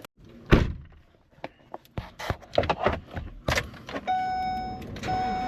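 Clicks, knocks and a key rattle, as of someone getting into a vehicle. From about four seconds in, a vehicle's warning chime beeps repeatedly, a steady tone about once a second, the kind sounded when a door is open with the key in.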